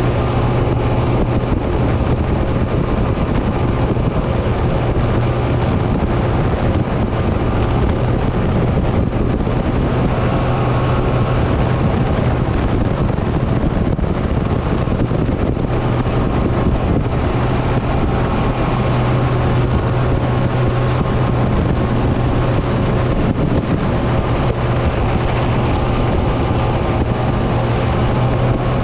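Boat engine running at a steady speed, a constant low drone with wind buffeting the microphone.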